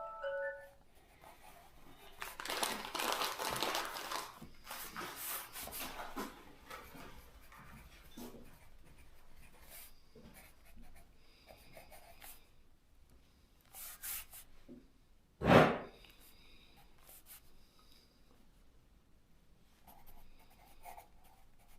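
Pencil writing on paper in a visitors' book, with scratching and rustling that is loudest a few seconds in, and a single sharp knock about fifteen seconds in.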